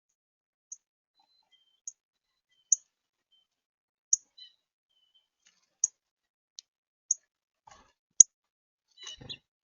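Small bird at a feeder giving sharp, high chip notes, spaced irregularly about once a second, with a brief rustle near the end.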